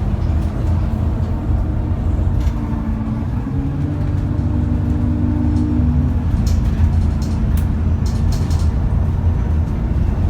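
Cummins ISBe 6.7-litre diesel engine of an ADL Enviro400 double-decker bus running with a steady low rumble. A pitched drone rises from about two seconds in and breaks off about six seconds in. Short rattles follow.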